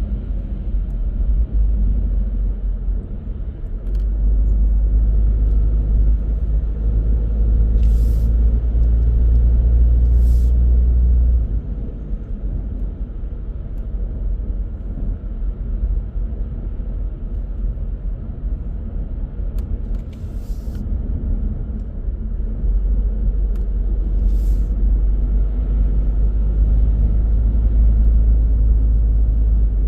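Low, steady rumble of a car driving along a road, heavier for several seconds and easing off suddenly about a third of the way in, then building again near the end. A few brief faint ticks sit over it.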